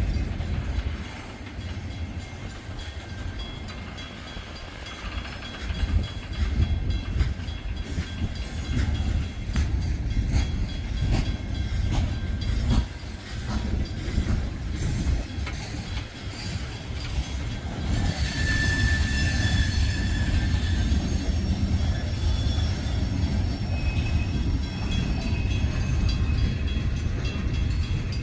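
A freight train rolls slowly along the track with a steady low rumble and scattered clanks from the cars. A high wheel squeal sounds for a few seconds about two-thirds of the way through.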